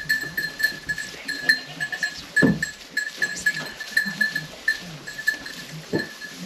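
A goat close by, with short high ringing notes repeating several times a second and one louder low sound about two and a half seconds in.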